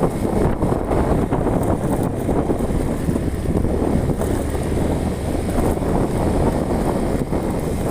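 A vehicle driving along a road: a steady engine and road rumble, with wind buffeting the microphone.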